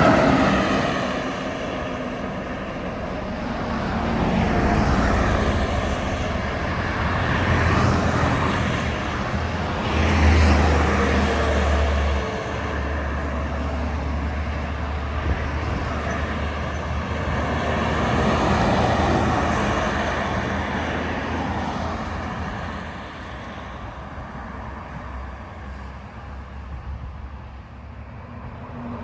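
Heavy trucks and other traffic passing by one after another, each swelling and fading with tyre and engine noise that drops in pitch as it goes by. The loudest pass, with a deep engine drone, comes about ten seconds in.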